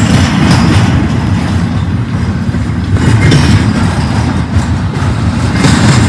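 Freight train rolling past: a steady, loud rumble of the cars with a few sharp clacks from the wheels.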